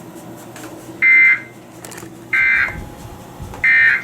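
Emergency Alert System end-of-message data bursts: three short, loud two-tone digital buzzes about 1.3 seconds apart. They are the 'NNNN' code that marks the end of the weather radio alert just broadcast.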